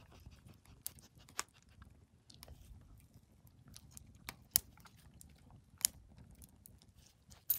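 Wire fox terrier chewing a treat thoroughly, with scattered sharp crunches and clicks of its teeth. The loudest crunches come about four and a half and six seconds in.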